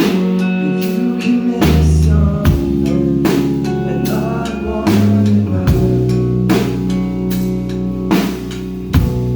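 Rock band playing live: drum kit and guitars, with a sustained low line changing note every second or so under heavy drum hits.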